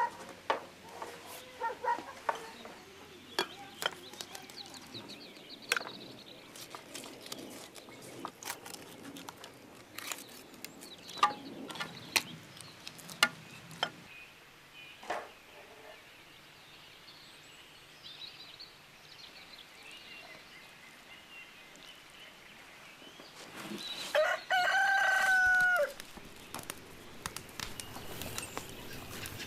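A rooster crows once, loud and about two seconds long, its note holding steady and then dropping off, about three-quarters of the way through. Before it, scattered sharp clicks and knocks.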